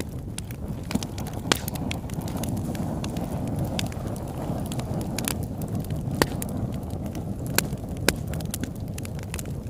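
Campfire burning with a steady low rush and scattered sharp crackles and pops, a few of them louder snaps.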